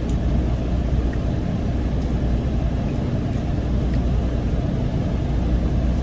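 Steady low rumble of a motor vehicle, unbroken, with a few faint ticks.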